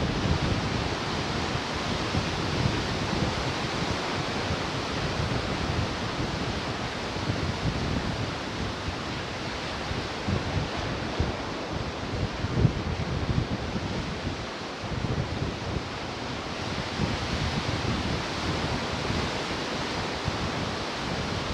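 Ocean surf washing on the shore in a steady rush, with wind gusting on the microphone.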